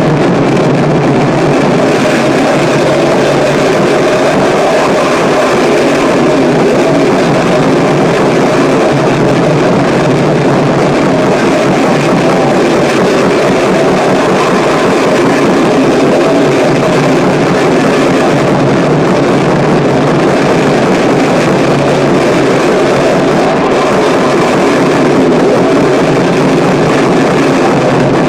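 Harsh noise music: a loud, steady, dense wall of noise, strongest in the low-middle range with almost no deep bass, without any beat or break.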